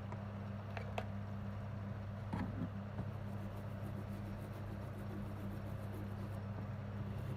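Steady low electrical hum with a few faint light clicks, about one second and two and a half seconds in.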